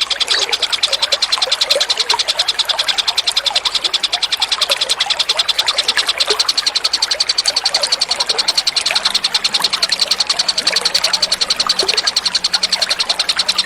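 Small songbird's fast, even trill of rapidly repeated high notes, played as a bird-song tutor recording for training cage songbirds.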